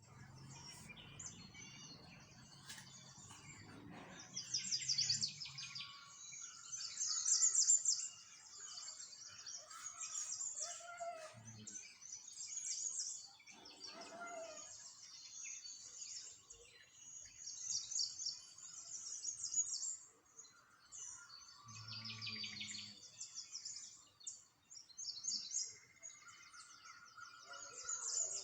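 Small songbirds singing and chirping, with quick high trills repeated in bursts.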